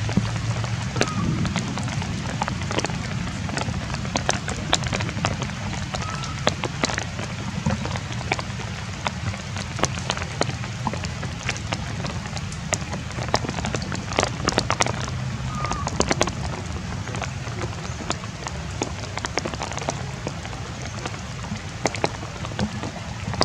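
Steady rain falling on surfaces, with many scattered sharper drop hits.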